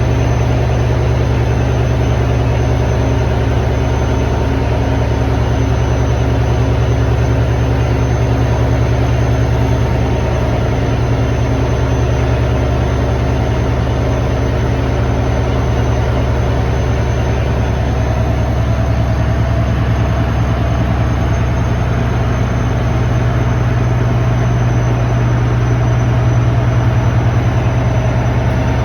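Large marine diesel engine running steadily at constant speed, a loud low hum with a fast even pulse.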